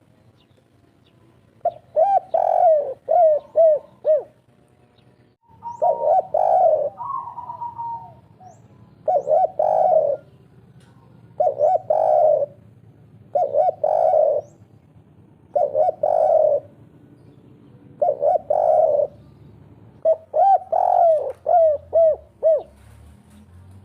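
Spotted dove (tekukur) cooing in the 'kuk 3' style, a male in full breeding condition: low phrases repeated about every two seconds, with quick runs of short coos about two seconds in and again near the end.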